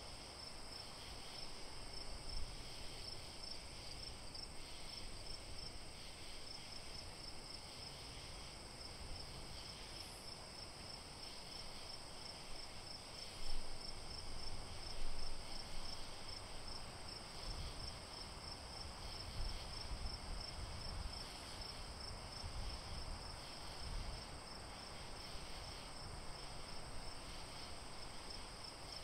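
Crickets chirping in a steady, high, pulsing chorus, with a couple of brief louder low rustles about halfway through.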